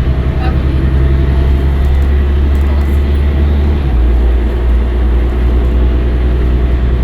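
Scania L113CRL bus's 11-litre six-cylinder diesel engine running loudly with a deep, steady drone; the engine note changes about four seconds in.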